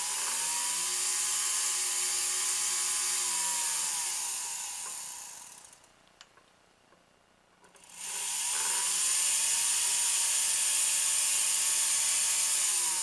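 Jeweler's rotary tool spinning a flat polishing wheel against a white gold necklace link, smoothing the soldered pin joint. It runs twice with a gap of about two seconds between: each time the motor whine rises as it speeds up and drops as it slows, over a steady hiss of the wheel on the metal.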